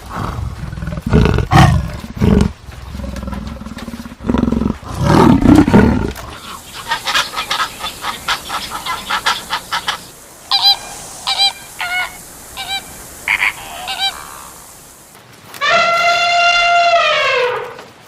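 A run of different animal calls: low, rough calls for the first six seconds, then a string of short, high, repeated calls, and near the end one long call that falls in pitch as it ends.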